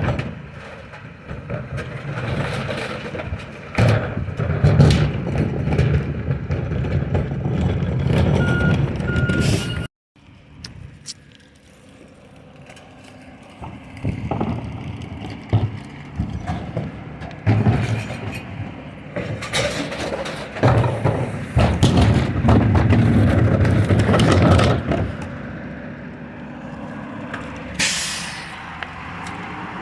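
Recycling truck at work: its engine revs under load in two long stretches, with clattering and banging as recyclables are tipped in. There are a few short beeps about a third of the way in and a brief hiss of air near the end.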